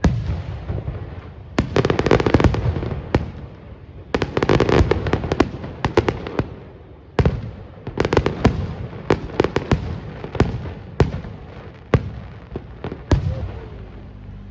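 Fireworks display: aerial shells bursting with sharp bangs, dense crackling volleys and a low rumble between them.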